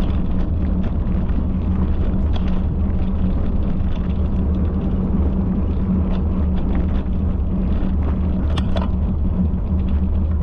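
A steady, loud low rumble with a constant low hum, sprinkled with light scattered clicks and rattles.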